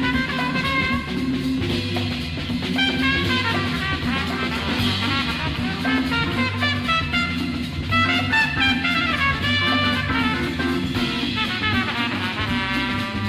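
Instrumental jazz-rock from a 1969 album: a brass horn melody over drum kit and a repeating bass line.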